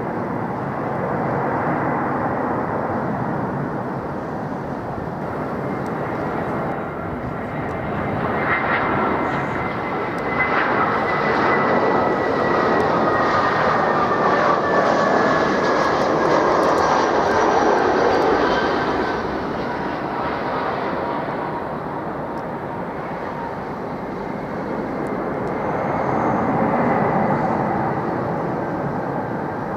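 Jet airliner passing close on its landing approach: broad engine noise swells to a peak about halfway through, with a high whine that slides slowly down in pitch as it goes by, then fades. The noise rises again briefly near the end.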